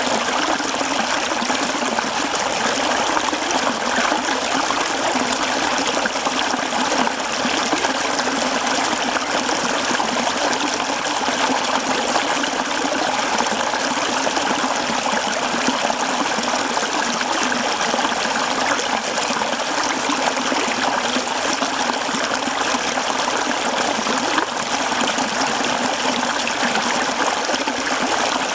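Mountain stream flowing over rocks, a steady, even rush and trickle of water.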